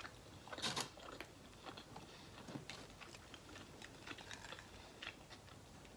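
Close-miked chewing and mouth sounds of someone eating a Chipotle burrito bowl: faint, soft wet clicks and smacks, with a louder burst a little under a second in.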